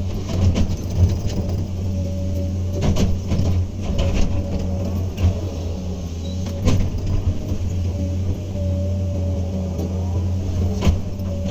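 Hydraulic excavator's diesel engine running steadily under work, with a higher whine that comes and goes and scattered sharp knocks.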